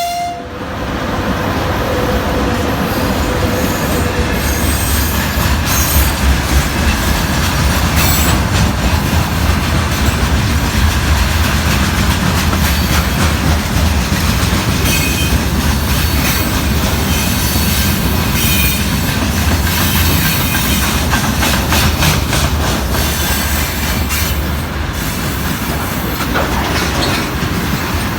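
Freight train behind a VL80S electric locomotive rolling past, its wagon wheels clattering over rail joints with occasional squeals. A horn blast cuts off at the very start.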